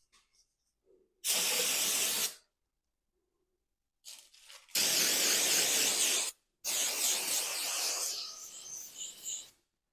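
Aerosol can of solvent cleaner spraying in three bursts: a short one about a second in, a second one in the middle, and a longer last one of about three seconds that sputters as it fades out. The solvent is being sprayed to wash oil off the part.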